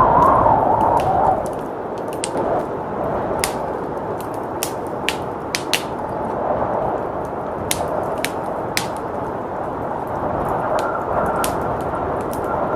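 Wood fire crackling with scattered sharp pops over a steady rush of blizzard wind, which gusts louder in the first second or so.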